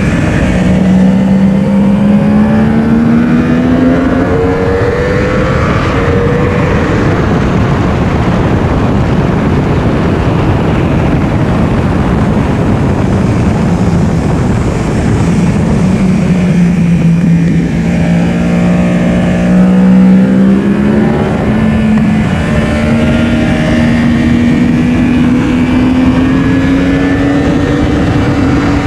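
Yamaha R1's inline-four engine running hard on track, its note climbing in the first few seconds, dropping lower around the middle, then rising slowly again toward the end, under heavy wind rush on the onboard camera's microphone.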